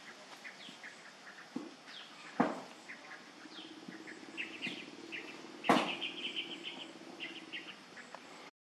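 Small birds chirping in short falling notes and quick trills, with two sharp knocks, the louder one a little before six seconds in, and a faint low hum through the middle. The sound cuts out just before the end.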